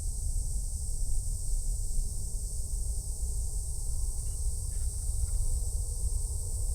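A steady high-pitched insect drone, the unbroken trilling of summer insects, over a louder low rumble.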